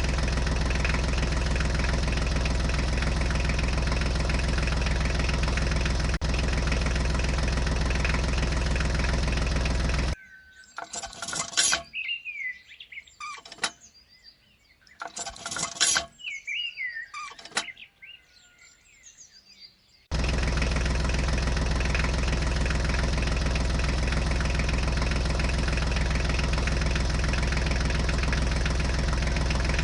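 A small motor running steadily at one speed with a constant drone. It cuts off abruptly about a third of the way in, giving way to quieter outdoor sound with a few bird chirps and brief rustles. About two-thirds of the way in the same steady motor drone cuts back in.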